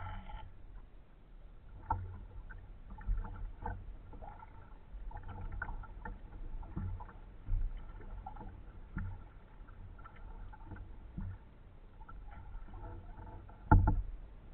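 Kayak paddling: irregular paddle strokes and water sounds with scattered knocks, the loudest a sharp knock near the end, over a low rumble.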